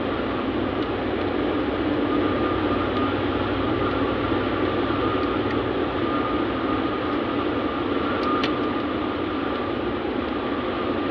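Steady running noise of a semi-truck on the move, heard inside the cab: a low engine hum under an even rush of tyre and road noise, with a faint steady whine.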